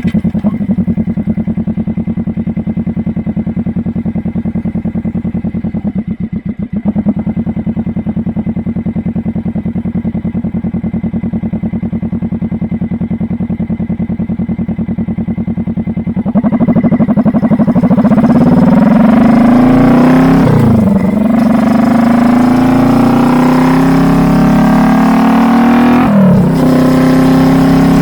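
Kawasaki Vulcan S 650's parallel-twin engine through a TrueDual Valero dual exhaust, running steadily at first with a brief drop about six seconds in. From about sixteen seconds it gets louder and climbs in pitch under acceleration, with two short dips where it changes gear.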